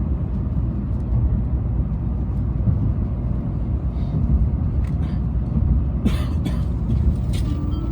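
Tokaido Shinkansen Nozomi train running, heard from inside the passenger car as a steady low rumble, with a brief rattle about six seconds in. A few stepped tones of an onboard chime begin near the end.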